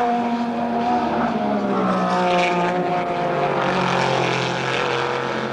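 GT racing cars passing at speed, their engine notes falling in pitch as each goes by; a second car's engine comes in about two seconds in.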